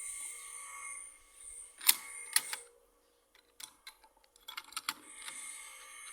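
Several sharp clicks and light taps, like small hard parts being handled and set down, loudest about two seconds in and clustered again near the five-second mark, over a steady high hum that drops out briefly in the middle.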